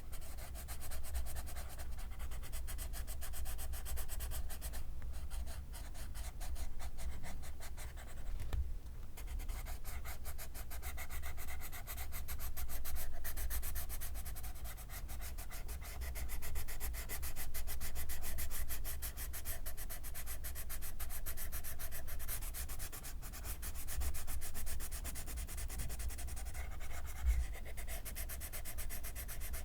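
Graphite pencil scratching over paper in continuous, close-miked writing strokes, over a low steady rumble.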